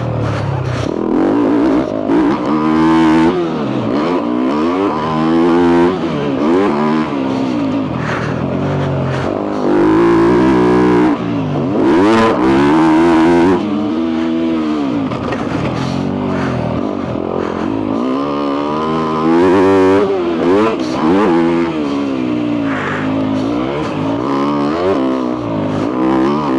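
2022 Yamaha YZ250F's four-stroke single-cylinder engine with a full FMF exhaust, ridden hard at racing pace. It revs up and drops back again and again, with a few louder pulls along the way.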